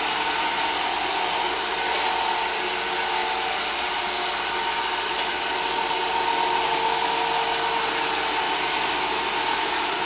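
iRobot Roomba robot vacuum running: a steady whirring hum with a high whine from its motor and brushes, as it circles round and round in its opening spiral.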